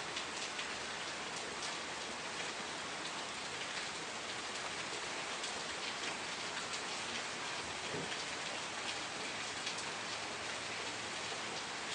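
Steady rain falling, an even hiss with many fine raindrop patters on a surface.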